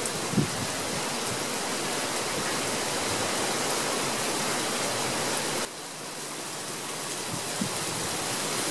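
Steady heavy rain from a thunder shower falling on grass and on a taut, pitched tarp. The rain noise drops suddenly a little past halfway, then builds back up.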